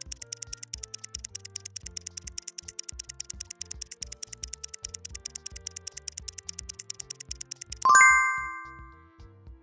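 Quiz countdown: background music with a fast, even clock-like ticking. About eight seconds in, the ticking stops and a loud bell-like ding rings out and fades.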